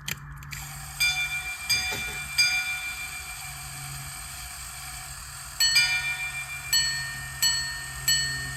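A Henry Sandoz minute repeater pocket watch chiming the time after a few clicks of its activating slide. It strikes three low gong notes for the hours, a quick two-note ding-dong for one quarter, then higher single strikes for the minutes, about one every 0.7 s. The watch is striking 3:20 correctly.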